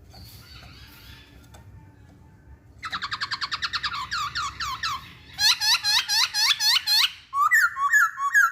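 Masked laughingthrush (Hong Kong poksay) singing. After about three seconds comes a rapid run of repeated clear whistled notes, then a louder series of swooping notes, and the song ends with a few lower notes.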